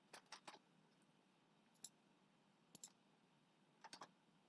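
Faint computer mouse clicks, a few scattered single clicks and quick pairs, over near silence.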